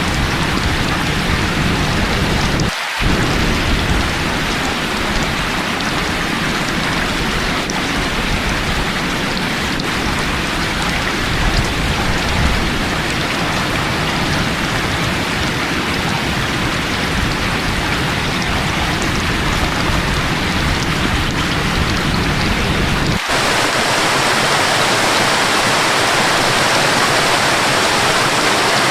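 Steady, loud rain with a deep rumble under it. A little over three-quarters of the way through it cuts abruptly to a brighter, even rush of falling water without the low rumble, as from a waterfall.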